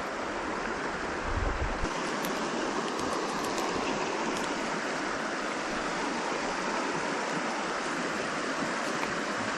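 Steady rush of a small creek's running water, with a brief low rumble about one and a half seconds in.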